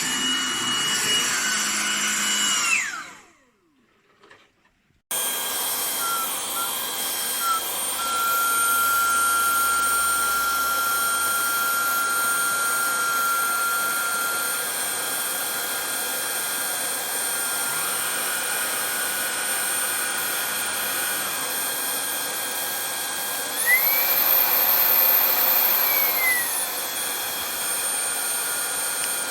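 Vax Blade 4 cordless stick vacuum cleaner's motor running with a high whine, then switched off about three seconds in and winding down. It is switched back on abruptly a couple of seconds later and runs steadily. Near the end it steps up to a higher, louder speed for about three seconds, then drops back.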